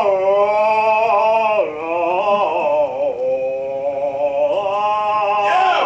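A single voice singing in a mock-operatic style, holding long, drawn-out notes that drop in pitch a couple of times and climb again near the end.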